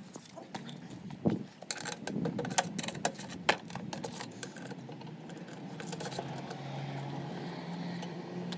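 Metal tools and parts clicking and clinking against each other while a Honda Dio scooter's cylinder is taken apart, over a steady low hum.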